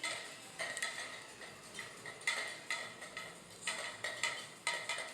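Hard decorative items clinking and knocking together as they are picked up and moved around on a store shelf, a dozen or so irregular knocks, each with a short ring.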